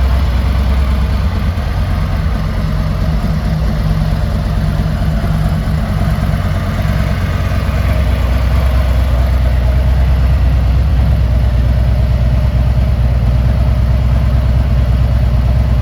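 2017 Harley-Davidson Road Glide Ultra's V-twin engine idling steadily.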